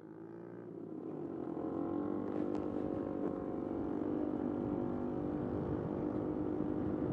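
Small motorcycle engine running steadily, its level rising over the first two seconds and then holding even.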